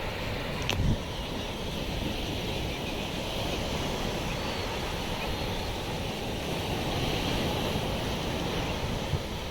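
Surf washing on the shore, with wind buffeting the microphone. There is a sharp knock a little under a second in.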